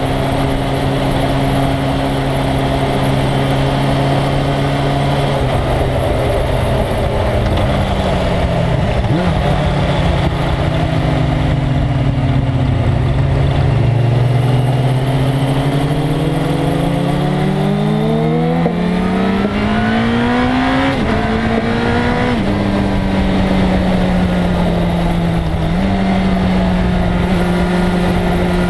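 1997 Suzuki GSX-R1100's inline-four engine at speed over heavy wind rush. The engine note holds steady, dips about a third of the way in, then climbs in pitch with quick drops for upshifts about two-thirds of the way in before settling to a steady note.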